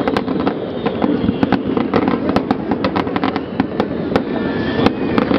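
Fireworks display: a rapid, irregular string of sharp cracks and pops from bursting fireworks over a steady background din.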